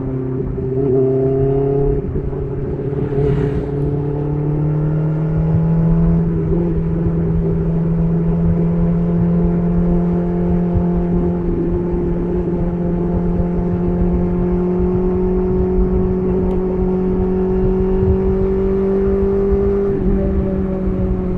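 BMW S1000RR's inline-four engine running through an SC Project titanium exhaust while riding. The engine note climbs about two seconds in, then holds steady and rises slowly, with a brief dip near the end.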